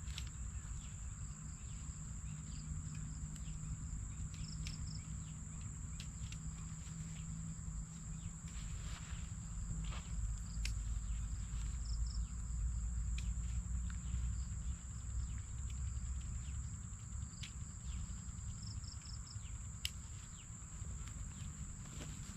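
Insects, crickets or the like, trilling in one steady high-pitched note, with a few short chirps, scattered clicks and a low rumble underneath.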